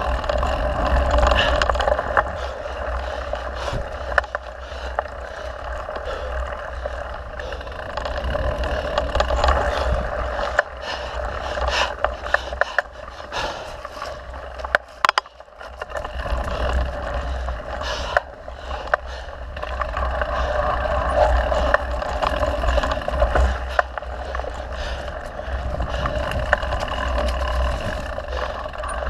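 Mountain bike rolling along a dirt trail: continuous tyre and wind noise with a low rumble, broken by frequent rattles and knocks from the bike over rough ground, easing briefly about halfway through.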